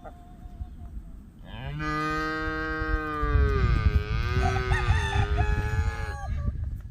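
A cow mooing: one long, drawn-out call that starts about a second and a half in and dips in pitch midway before it ends.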